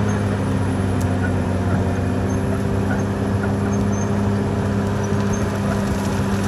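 Caterpillar D6R XL bulldozer's diesel engine running steadily under load.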